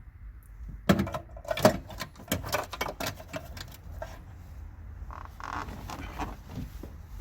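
A quick run of sharp clicks and knocks, like tools and parts being handled during the work, starting about a second in and lasting two or three seconds, then a softer scraping rustle.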